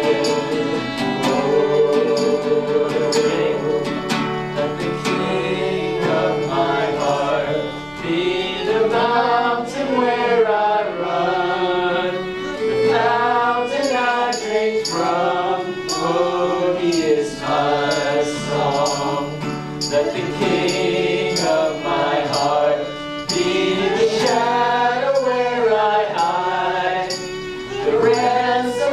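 Church worship music: voices singing a flowing melody over sustained instrumental accompaniment with a steady beat.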